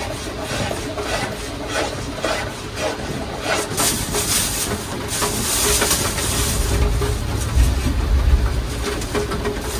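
Heavy rain falling steadily, with many separate drop hits in its hiss. The hiss swells for a couple of seconds around the middle, and a low rumble rises near the end.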